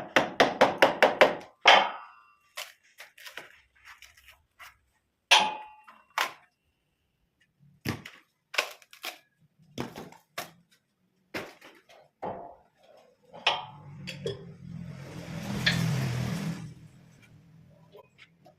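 A quick run of about eight sharp knocks, then scattered single knocks and taps of wood and tools, as in work at a wood lathe. Near the end comes a brief low hum with a hiss, lasting about three seconds.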